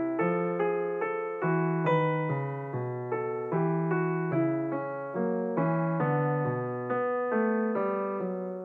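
Background music: a gentle piano melody on an electric piano or keyboard, notes struck at an even pace of about two a second, each fading before the next.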